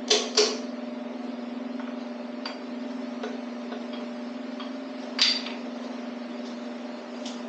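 Metal engine parts clinking and knocking as they are handled during an engine teardown: two sharp clinks right at the start and another about five seconds in, over a steady hum.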